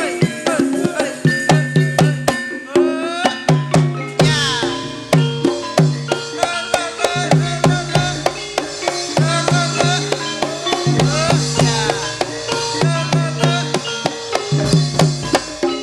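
Banyumasan gamelan music for the ebeg dance: kendang hand drums beat a quick, busy rhythm under the ensemble's sustained pitched tones, with a melodic line sliding in pitch above.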